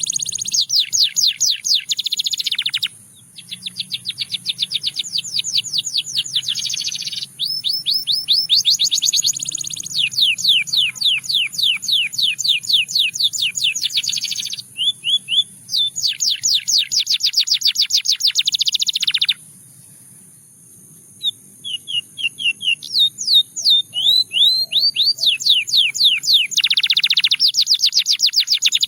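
Canary singing in long, fast rolling trills of rapidly repeated high notes, broken by short pauses and a longer pause about twenty seconds in, after which a few slower, varied notes lead back into the rapid trills.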